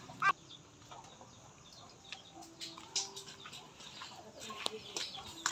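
Faint bird calls, with a few sharp clicks scattered through.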